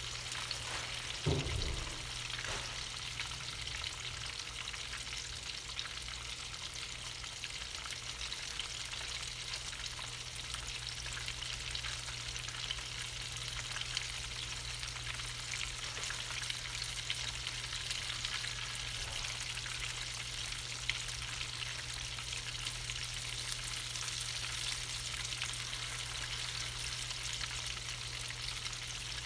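Breaded chicken pieces frying in hot oil: a steady sizzle with fine crackles, over a steady low hum. A brief low thump sounds about a second in.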